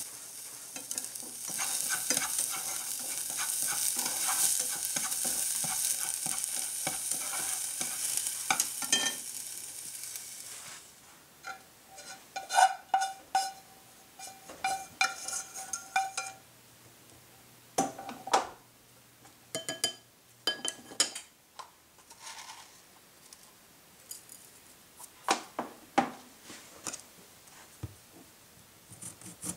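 Diced onion and chile sizzling in a saucepan, stirred with wooden chopsticks; the sizzling fades out about a third of the way in. Then chopsticks knock and scrape against the metal pan as the mixture is scraped into a bowl, followed by scattered light knocks.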